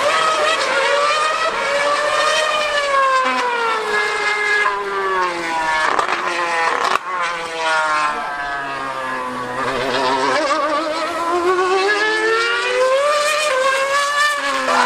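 2013 Formula One car's 2.4-litre V8 screaming at high revs, its pitch sweeping up and down as it accelerates and slows around the track. There are two sharp cracks about six and seven seconds in.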